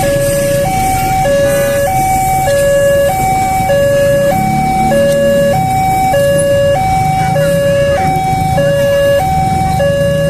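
Railway level-crossing alarm sounding, an electronic two-tone signal alternating evenly between a high and a low note, each held about half a second, with a steady low rumble underneath.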